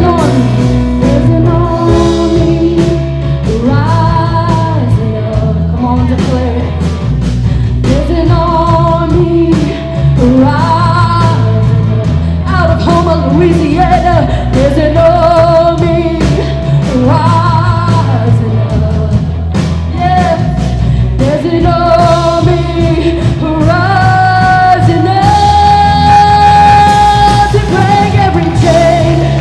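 Live church worship band playing rock-style praise music with singing over drums, bass and guitar, ending on a long held sung note.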